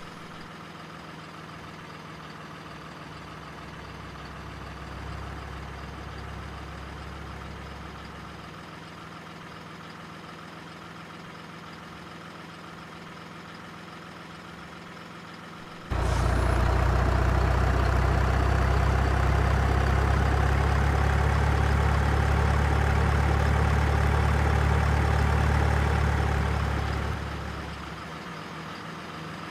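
Remote-control model truck running with a steady, truck-like engine sound, getting suddenly much louder about halfway through and dropping back near the end.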